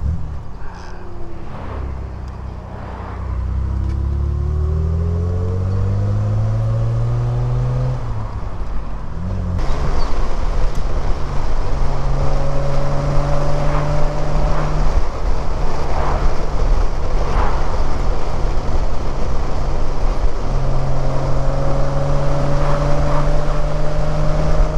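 Triumph Vitesse 2-litre straight-six engine accelerating, its pitch climbing for several seconds before dropping at a gear change about ten seconds in. After that it pulls steadily at road speed over wind and tyre noise.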